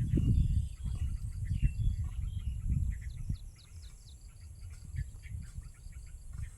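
Birds chirping over a loud, uneven low rumble, with a steady high insect whine. The rumble eases off a little after the first half.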